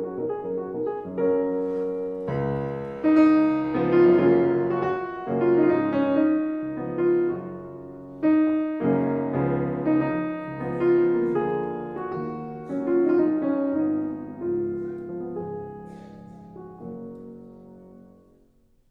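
Solo piano music playing a slow piece with a new chord or note about every second, fading out over the last few seconds.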